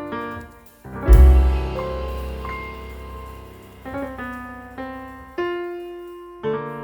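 Background piano music: a deep low chord struck about a second in, then slower single notes and chords fading between strikes.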